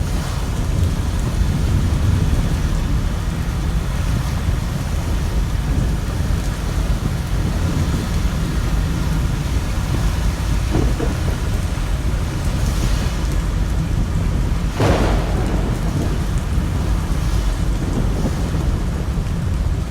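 Heavy rain pouring, with a deep, steady rumble of thunder underneath. A brief louder burst comes about fifteen seconds in.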